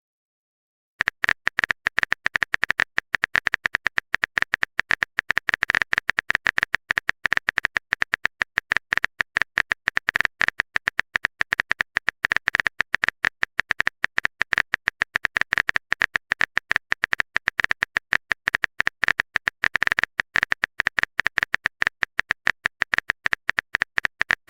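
A typing sound effect: a long run of rapid keyboard clicks, starting about a second in.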